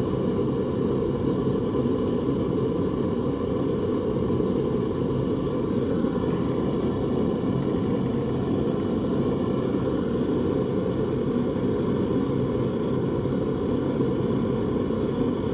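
Propane forge burner running steadily, a constant low noise with no change in level.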